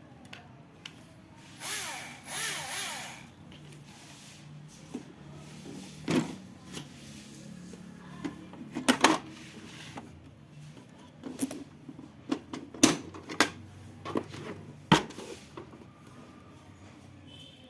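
Electric drill run in two brief bursts about two seconds in, its motor speeding up and winding down. This is followed by a scattering of sharp clicks and knocks, as of the tool and parts being handled.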